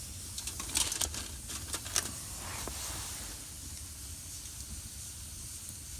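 Wood campfire and embers crackling, with a few sharp pops in the first two seconds over a steady hiss.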